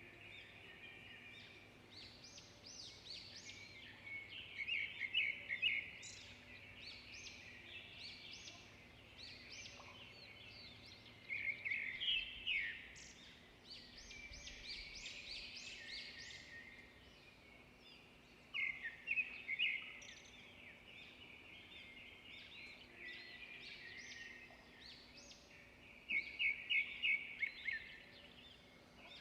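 Songbirds singing: one loud song of rapid repeated notes comes back about every seven seconds, with other birds chirping steadily around it.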